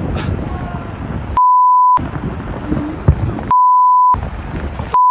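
Three censor bleeps, each a steady high beep of about half a second that blanks out all other sound, the last one starting near the end; between them, rough outdoor noise of the amateur recording.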